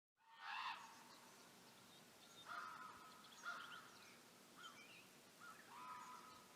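A bird calling about five times, short calls spaced roughly a second apart, over a steady background hiss that cuts in suddenly at the start.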